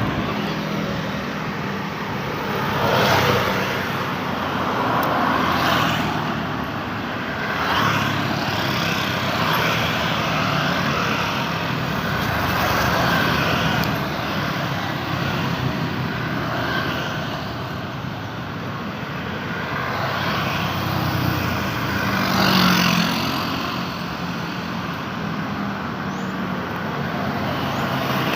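Busy road traffic: a steady wash of tyre and engine noise from cars and motorbikes, with a vehicle passing closer and louder every few seconds.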